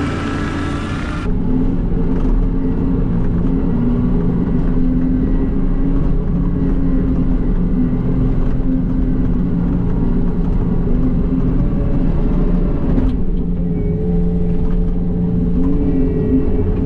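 John Deere 333E skid loader's diesel engine running steadily under work, its pitch wavering slightly as the load changes. About a second in, the sound shifts and the high hiss drops away.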